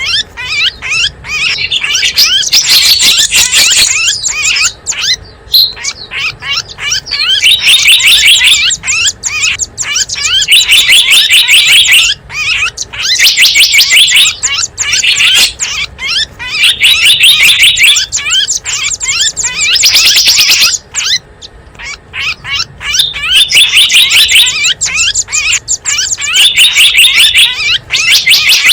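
Small wild birds chirping in a loud recording used as a lure call for bird catching: dense, rapid high chirps that come in repeated bursts of one to three seconds with short pauses between.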